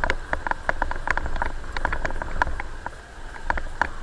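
Rapid, irregular light clicks or taps, several a second, over a steady low rumble.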